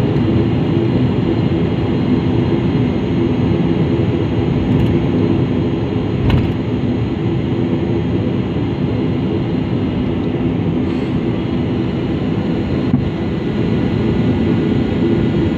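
Steady cabin noise of a jet airliner taxiing after landing: engines running at idle with a low, even hum, and a single knock about six seconds in.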